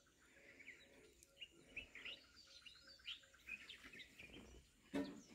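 Near silence with faint birdsong: many short chirps from small birds. A brief louder noise comes near the end.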